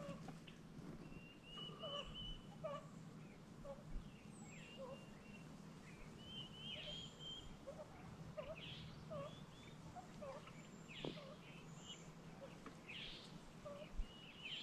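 Faint wild birdsong: many short chirps, high calls that sweep downward and a few trills, overlapping from several birds over a steady low background hum.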